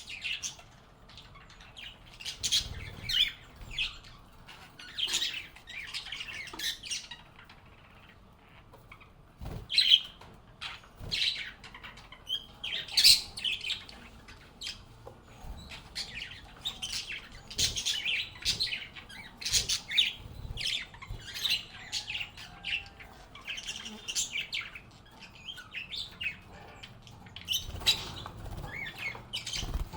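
Pet lovebirds chirping and calling in quick, overlapping bursts of short, high chirps and squawks, with a few soft low thumps in between.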